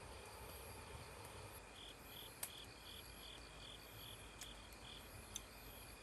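An insect, likely a cricket, chirping in a run of short, evenly spaced chirps, about three a second, starting about two seconds in and stopping near the end. Underneath is a faint steady hiss with a couple of faint clicks.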